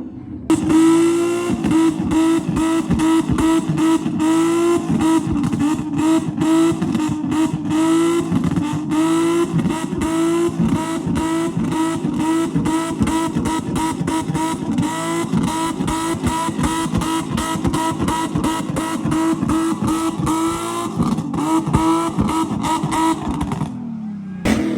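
Car engine held at high revs on a two-step launch-control rev limiter, with a steady high engine note broken by rapid popping and crackling. It cuts in abruptly at the start and cuts off abruptly near the end.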